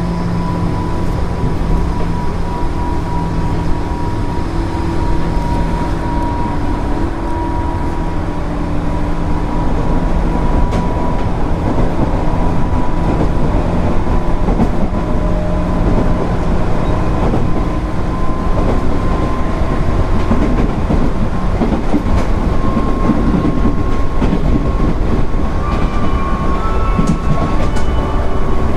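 JR West 205 series 0 electric train with field-added excitation control running at a steady speed: rumbling wheel and rail noise under steady, slightly drifting motor and gear whine tones, with a few higher tones coming in near the end.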